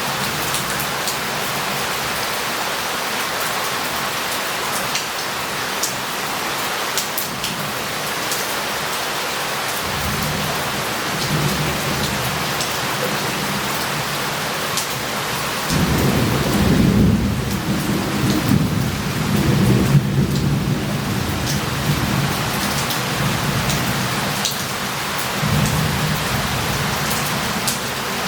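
Heavy rain falling steadily with sharp drip ticks, and rolling thunder rumbling low from about ten seconds in, loudest around the middle and rising again near the end.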